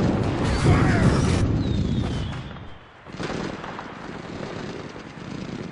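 Added battlefield sound effects: a loud, noisy rumble of war sounds with a faint falling whistle about two seconds in, dropping away briefly near the middle, then a quieter steady rumble.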